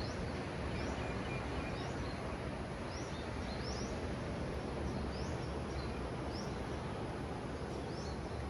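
A bird giving short, high, upward-flicking chirps, repeated about once or twice a second, over a steady rushing background noise.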